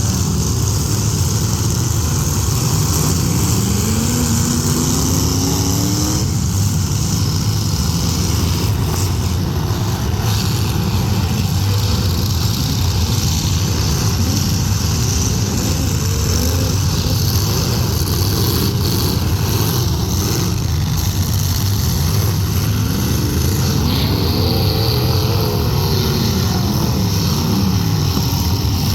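Several full-size demolition derby cars with their engines running hard throughout, their pitch rising and falling as drivers rev and accelerate.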